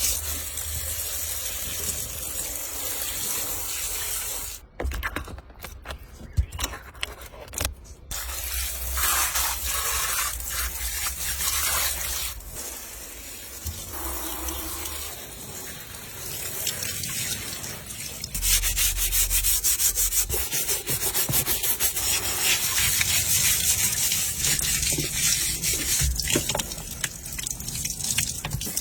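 Car being washed: rubbing and scrubbing noise with water, growing louder about two-thirds of the way through.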